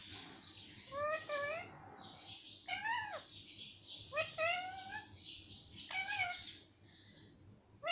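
Pet talking parrot vocalizing in about four short, pitched, meow-like calls with bending pitch, each lasting under a second. Quieter near the end.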